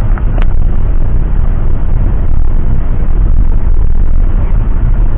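Loud, steady rumble of a jet airliner heard from inside the cabin, with one sharp click about half a second in.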